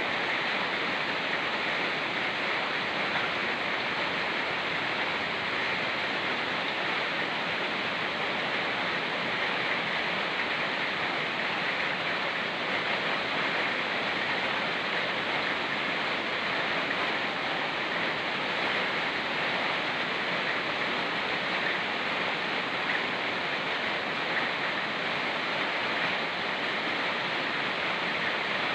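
Rain falling in a forest over a fast-flowing mountain river: a steady, even rush of water with no breaks.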